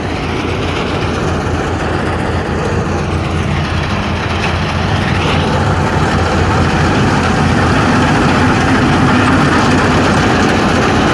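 An engine running steadily with a low hum, growing slightly louder toward the end.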